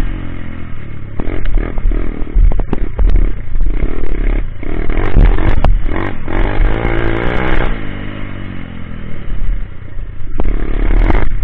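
Coolster Speedmax 125 pit bike engine running while it is ridden, its revs rising and falling and peaking around the middle, with clattering knocks over the top.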